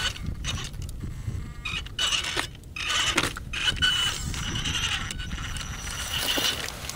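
A radio-controlled rock crawler's brushless electric motor and gear drivetrain whining as it creeps over rock, with scattered clicks.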